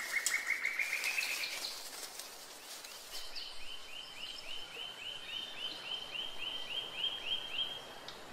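Forest bird calls: a fast run of short notes climbing slightly in pitch that stops about a second and a half in, then after a short pause a steady series of short high notes, about four a second, that runs for several seconds.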